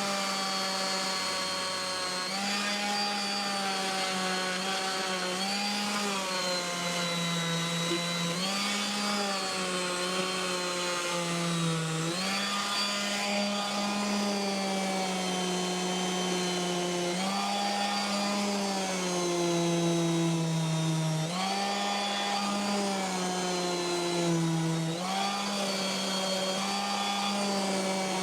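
Electric sander running against the cut end of a plastic drain standpipe, its motor pitch dipping and recovering every second or few as it is pressed on and eased off to flatten the uneven cut.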